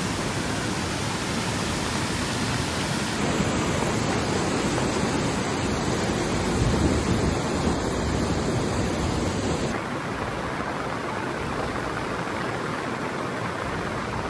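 Steady rush of floodwater, a dense even water noise with no breaks. It changes character abruptly about three seconds in and again near ten seconds.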